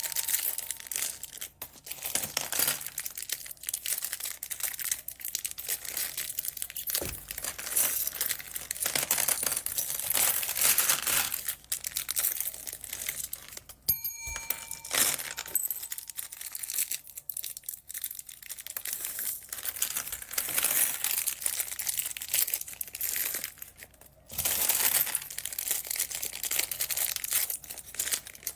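Plastic packaging bags being handled and crinkled: a near-continuous crackling rustle that stops briefly twice.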